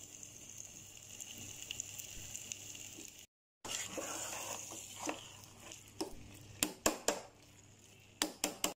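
Chicken masala sizzling and frying in a metal pot as a metal ladle stirs it: a steady frying hiss, broken briefly by an edit, then a run of sharp scrapes and knocks of the ladle against the pot in the last three seconds.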